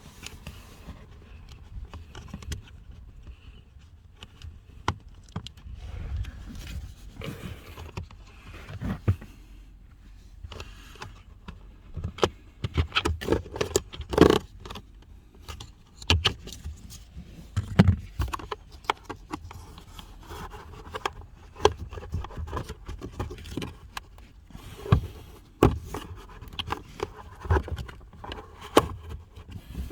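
Hands working at a car's cabin air filter housing and trim: a long run of plastic clicks, knocks and scraping, with the busiest and loudest stretch about halfway through.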